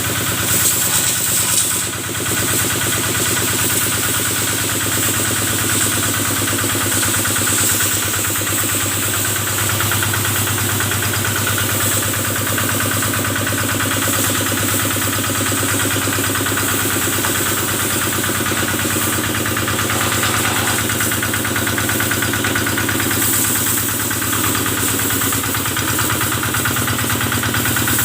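Kubota diesel engine running steadily, driving the water pump used for washing cattle, with a brief dip in level about two seconds in.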